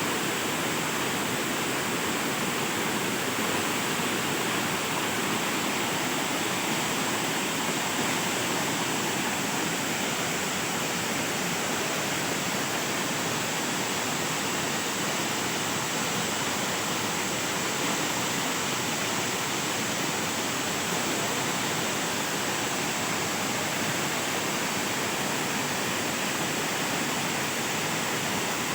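Waterfall pouring and splashing: a steady, unchanging rush of water.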